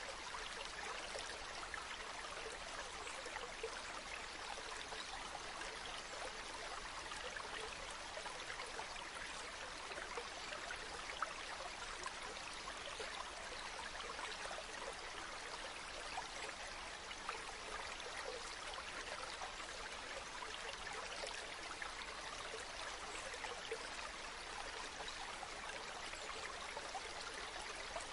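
Waterfall: falling water rushing and splashing in a steady, even wash, with small droplet splashes scattered through it.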